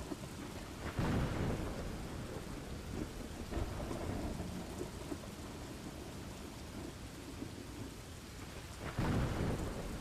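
Steady rain with rumbles of thunder, two louder thunder cracks: one about a second in, another about nine seconds in.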